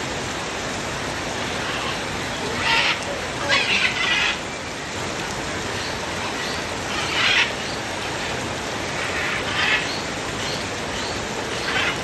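Steady rain, with a parrot giving short calls every few seconds, several of them bunched about three to four seconds in.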